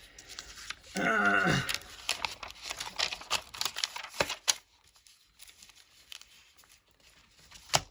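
Fineliner pen scratching and tapping in quick strokes on paper, with a brief wordless vocal sound about a second in.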